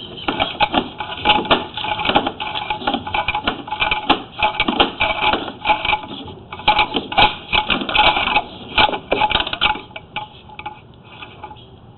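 Sewer inspection camera and its push cable rattling, clicking and knocking as they are fed down a drain line through the clean-out. The clatter is irregular and dense, and thins out about ten seconds in, leaving a low hiss.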